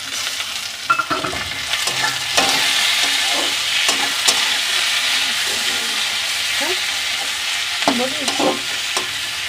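Chopped tomatoes sizzling in hot oil with fried onions in a metal kadai, a steel spatula scraping and stirring against the pan. The sizzle grows louder a couple of seconds in as the tomatoes are turned into the oil.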